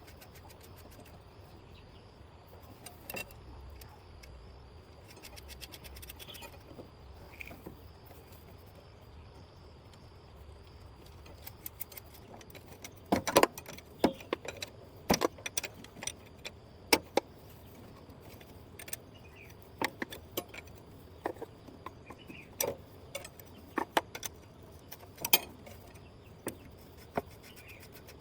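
Irregular sharp metallic clinks and clicks, like hand tools and small metal parts being handled and knocked together. They are sparse at first and become frequent and louder from about twelve seconds in.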